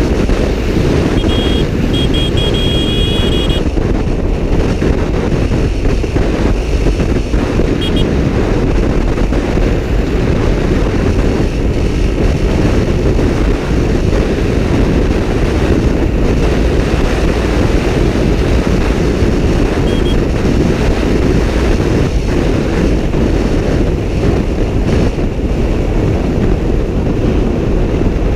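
Motorcycle at speed on a highway: steady heavy wind rush on the microphone over engine and road noise. Short high pulsed beeps sound about one to three seconds in.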